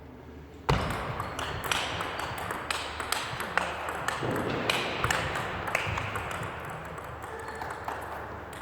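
Table tennis ball clicking off bats and the table in a rally: a run of sharp, uneven ticks that starts abruptly just under a second in.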